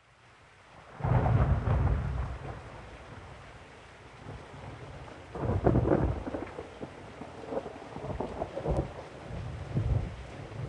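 Thunderstorm sound effect: steady rain with rolling thunder. It fades in at the start, the loudest rumble comes about a second in, another near six seconds, and smaller rumbles follow.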